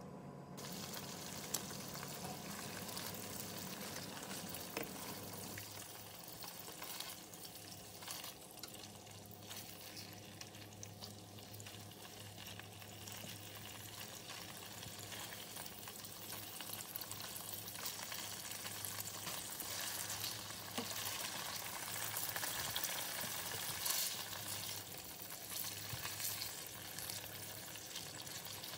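Chicken livers sizzling in hot oil in a nonstick frying pan. The sizzle starts about half a second in, with occasional clicks and scrapes of tongs turning the pieces.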